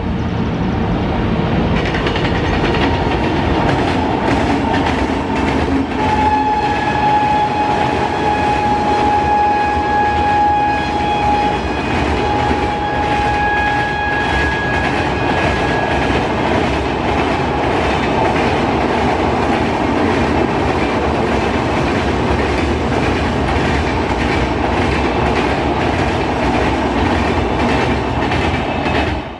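A speeding express train of LHB coaches crossing a girder bridge: a loud, steady rush of wheels on rails with rapid clickety-clack over the rail joints. About six seconds in, the train's horn sounds a long held blast and then a second, shorter one.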